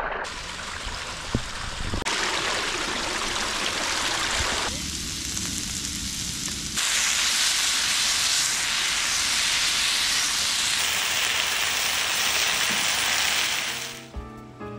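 Sliced onions sizzling in a wide pan on a portable gas stove: a steady hiss that changes sharply a few times.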